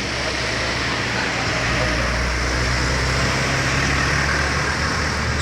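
Heavy truck engine running at low revs with road noise, growing louder as the fully loaded sugarcane truck comes through the bend.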